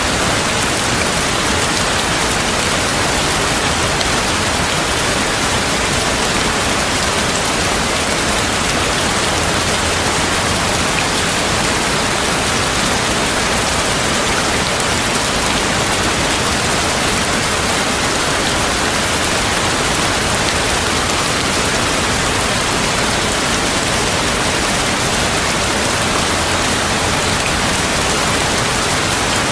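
Heavy rain falling steadily: a dense, even hiss with no change or break.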